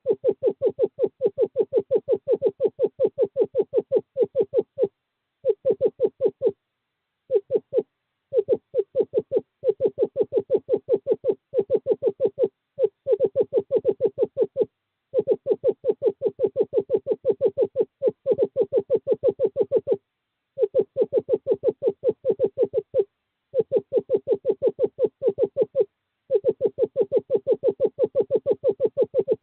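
Male screech owl giving a series of long, rapid trills on one steady pitch, separated by short pauses: the courtship call to draw a female to the nest box.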